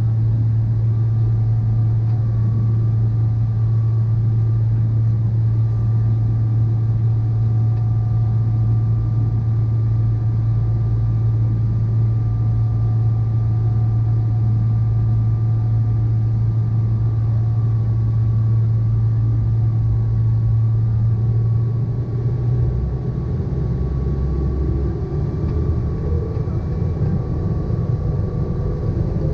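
Boeing 777-300ER's GE90 jet engines running steadily: a strong low hum with a thin high whine over it. The low hum shifts and roughens about 22 seconds in.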